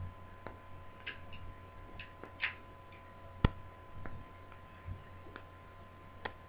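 Scattered, irregular small clicks and taps from laptop parts being handled during disassembly, the sharpest about three and a half seconds in, over a faint steady hum.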